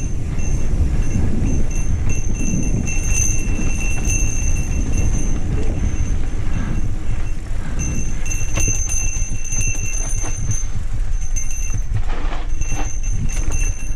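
Mountain bike rolling over a rough dirt trail: a steady rumble of tyres on dirt with the bike rattling and clicking over bumps. A thin high whine comes and goes over the top.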